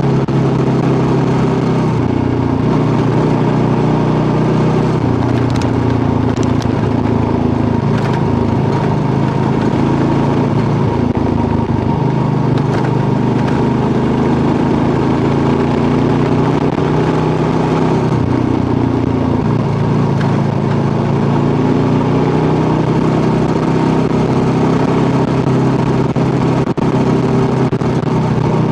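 Kawasaki KLR650's single-cylinder engine running steadily while riding, its pitch shifting a few times with the throttle, over a steady rush of wind and tyre noise on a gravel road.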